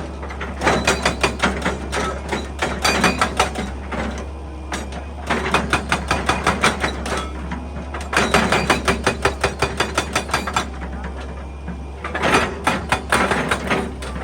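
Excavator-mounted hydraulic rock breaker hammering rock in five bursts of rapid blows, several a second, with short pauses between, over a steady low hum.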